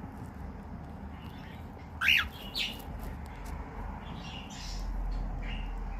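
Cockatiel giving two short, sharp chirps about two seconds in, followed by softer, quieter chirrups a couple of seconds later.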